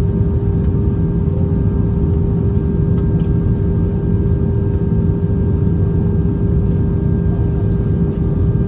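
Steady in-flight cabin noise aboard an Airbus A320: a loud, even rumble of engines and airflow with a constant hum held at one pitch.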